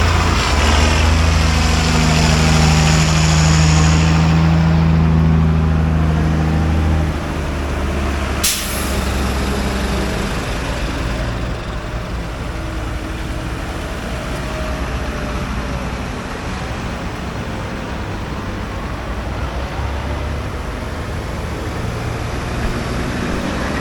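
Tractor engines running as a procession of tractors drives past: one large tractor is loud and close for the first seven seconds, then the sound drops to quieter engines further off. A single short, sharp hiss-like burst comes about eight and a half seconds in.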